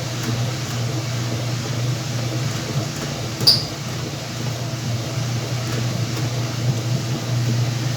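Whirlpool washing machine running with a steady motor hum, and one sharp click about three and a half seconds in.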